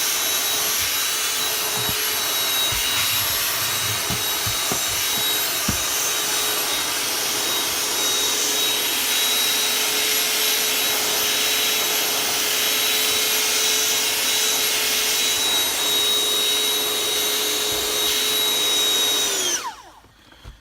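Vacuum cleaner running with a steady high whine while vacuuming a car's interior, then switched off about a second before the end, its whine falling as the motor winds down.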